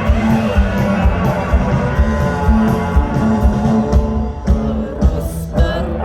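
Rock band playing an instrumental passage with electric guitar, bass and drums keeping a steady beat; near the end the band drops away and sustained voices enter.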